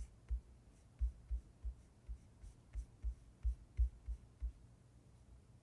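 Light, irregular clicking and tapping from working the slicer program's controls: about a dozen dull taps in the first four and a half seconds, then they stop. A faint steady hum lies beneath.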